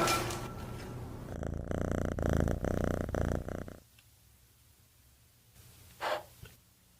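A house cat purring close up for about three and a half seconds, then stopping; one short sound follows about six seconds in.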